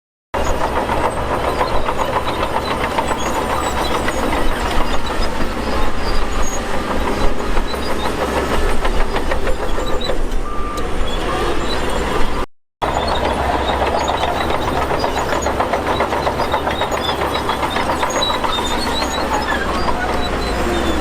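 Bulldozer's diesel engine running under load, with a dense clatter over a steady low rumble. The sound cuts out abruptly for a moment about halfway through, then carries on.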